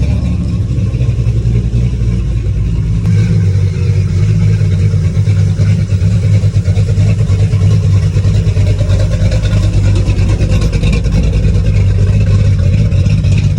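Dirt race car's engine running loud and steady at low revs, with no revving up or down.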